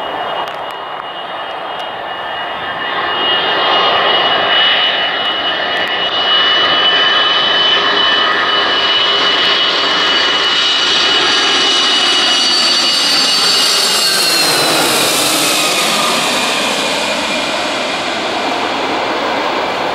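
Jet airliner passing close by, a rushing engine roar with a steady high whine that drops in pitch as it goes past about 14 to 15 seconds in.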